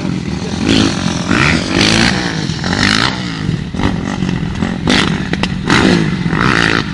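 Motocross dirt bike engines revving up and down over and over, the pitch climbing and dropping every second or so as the bikes accelerate and ease off around the track.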